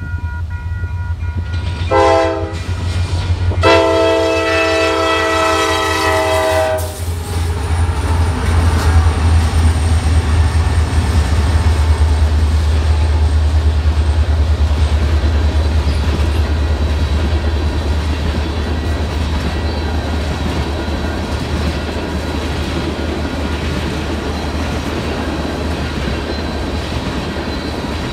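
Diesel locomotive horn on a CSX SD70MAC: a short blast, then a long blast of about three seconds, at a grade crossing. The train then rolls past close by, its wheels rumbling and clicking over the rail joints.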